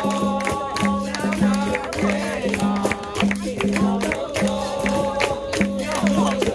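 Capoeira roda music: voices singing over a steady rhythmic beat of a repeating low pitched note and sharp hand-percussion strikes.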